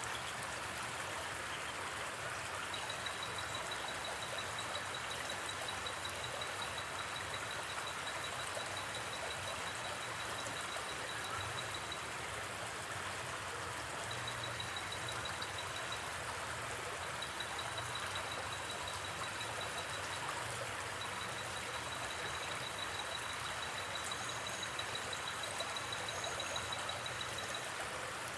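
Steady rushing of a flowing river, an even wash of water noise, with a rapid, high-pitched insect trill coming and going in long stretches over it.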